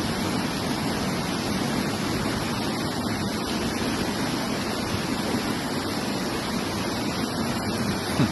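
Steady rushing of water, an even noise with no breaks, with one brief knock near the end.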